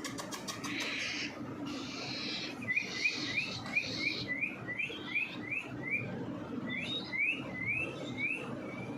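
Hand-fed parrot chicks begging for food: a raspy hiss at first, then a run of short rising chirps, about two a second, from about three seconds in.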